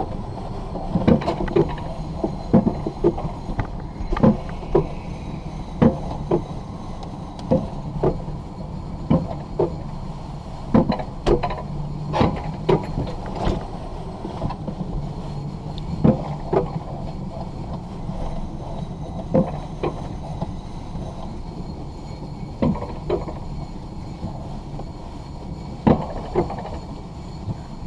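Alpine coaster sled being hauled up the steel-tube track on the lift: a steady low rumble and hum, with irregular sharp clunks and knocks as the sled rolls along.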